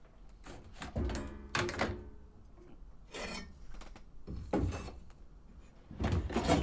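A series of about five separate thuds and clatters from objects being handled and set down, one with a brief ringing tone.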